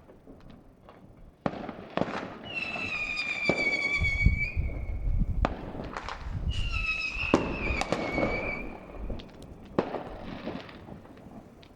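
Fireworks going off at a distance: a series of sharp bangs and crackles with a low rumble of heavier shots near the middle. Two whistling fireworks, each lasting about two seconds and dropping slightly in pitch, shriek about two and six seconds in.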